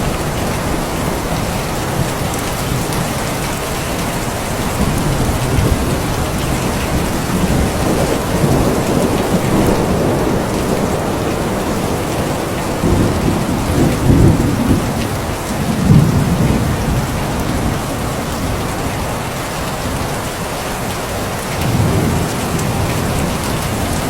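Steady heavy rain falling, with low rolls of thunder swelling up three times, the loudest about two thirds of the way through.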